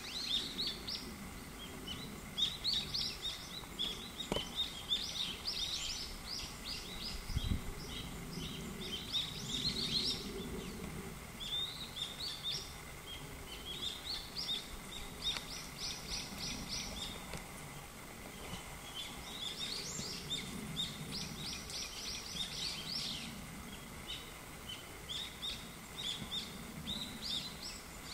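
Birds singing in quick, rapidly repeated chirping phrases, one run after another with hardly a pause, over a faint low background rumble. A single click about four seconds in and a low thump near the middle.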